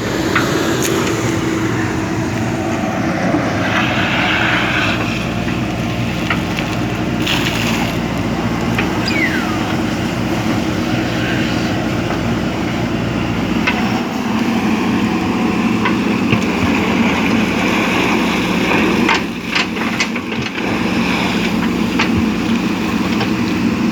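JCB backhoe loader's diesel engine running steadily under work, with scattered sharp knocks and clinks. The engine note shifts about halfway through.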